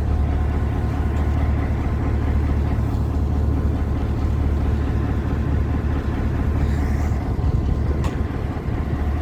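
Train engine running with a steady low rumble and a few faint steady tones above it.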